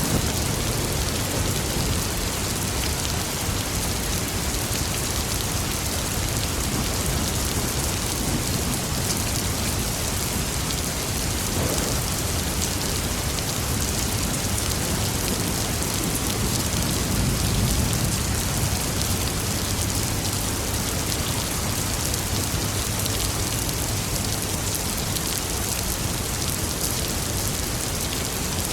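Steady rain falling, an even hiss of drops on surfaces, with a low rumble of thunder fading out at the start and a brief low swell about two thirds of the way through.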